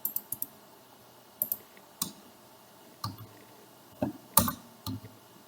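Scattered clicks of a computer mouse and keyboard while drafting in CAD software: a quick run of four clicks at the start, then single clicks about once a second, the loudest a little after four seconds in.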